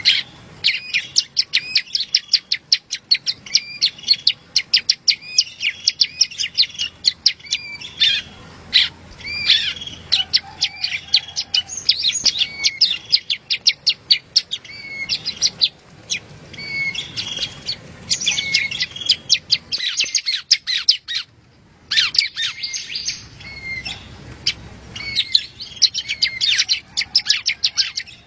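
Yellow-bellied prinia (prenjak rawa) singing: a fast, continuous series of short, sharp, high chirps, broken by one brief pause about two-thirds of the way through.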